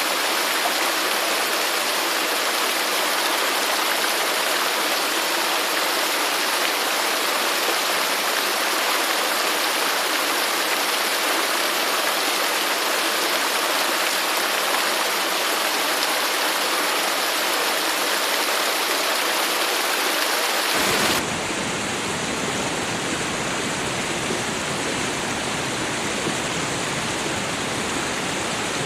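Running water rushing steadily. About three-quarters of the way through, the sound changes abruptly to a slightly quieter, deeper rush with less hiss.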